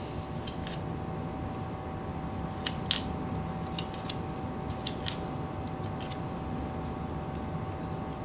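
Scattered light clicks and taps, about ten in all, over a steady background hum with a faint high tone: small objects being handled on a work surface.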